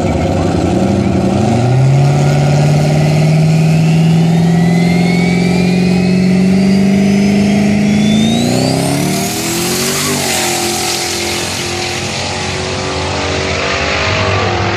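Turbocharged 5.3-litre LS V8 in a Ford Fairmont drag car, held at raised revs on the start line while the turbo spools up with a rising whistle. About nine seconds in it launches with a loud rush and pulls away down the drag strip, its revs falling and climbing again.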